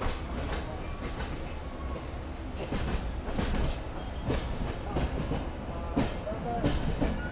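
Indian Railways passenger coach rolling along the track: a steady rumble with irregular clacks of the wheels over rail joints and points.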